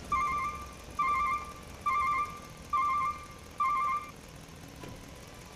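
Electronic reversing-alarm beeper sounding five pulsed beeps about once a second, then stopping about four seconds in.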